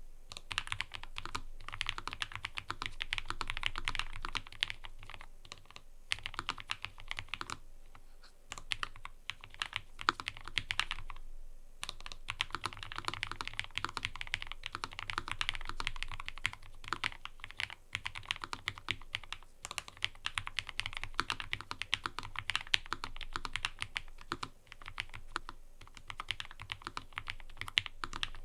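Fast typing on a mechanical keyboard: a dense, continuous run of key clacks, with short pauses about eight and eleven seconds in.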